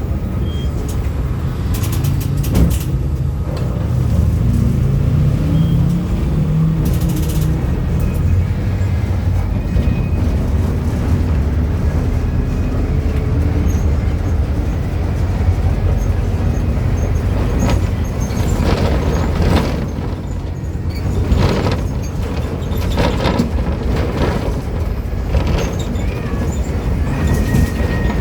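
Volkswagen 17-230 OD city bus engine running under way, heard on board: a steady low rumble whose pitch climbs as the bus accelerates about four to seven seconds in. Two short bursts of hiss come near the start, and there are frequent rattles and knocks in the second half.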